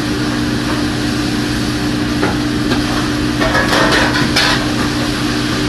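Steady mechanical hum of commercial kitchen equipment, with a few light clatters a little past the middle.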